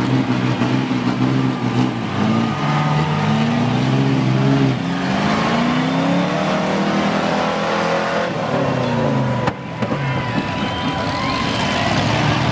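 Big off-road truck engines revving hard under load during a truck tug-of-war, the pitch climbing and falling again and again. The sound drops out briefly and suddenly about nine and a half seconds in.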